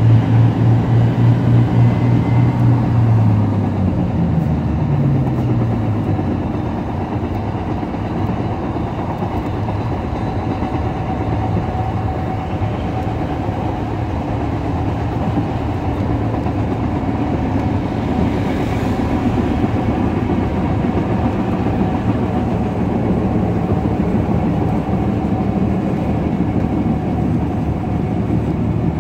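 Diesel train running along a single track, heard from aboard. A strong low engine throb pulses a few times a second at first, then drops in pitch and fades about four to six seconds in, leaving the steady running noise of the train on the rails.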